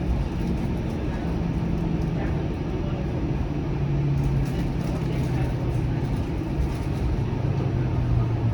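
Flexity Outlook low-floor streetcar in motion, heard from inside: a steady rumble of wheels on rails under a low motor hum that slowly drops in pitch.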